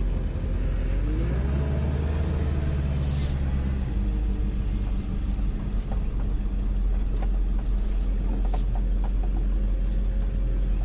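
Ford Super Duty's 7.3 L Power Stroke diesel engine running with a low rumble; its revs rise about a second in as the truck is put into reverse, then settle back to a steady low run.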